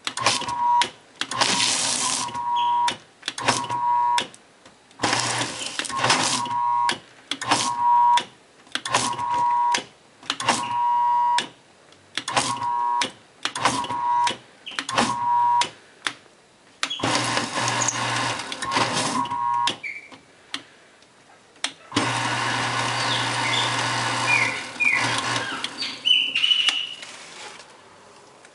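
Prime 2600 electric paper shredder's motor running in short bursts of about a second, starting and stopping a dozen or so times, then two longer, noisier runs of a few seconds near the end.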